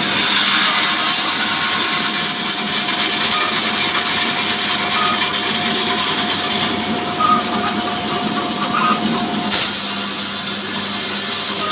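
Petrol-engine sawmill running and sawing through a mahogany log, a loud steady engine drone with the hiss of the blade in the wood. The hiss eases for a few seconds about two-thirds through, then picks up again.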